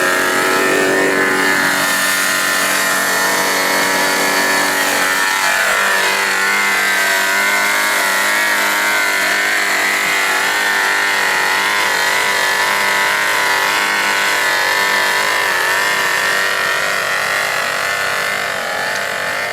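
G-Mark five-cylinder radial model engine on an RC Nieuport 28 running steadily. Its pitch drops over the first few seconds, then wavers slightly up and down.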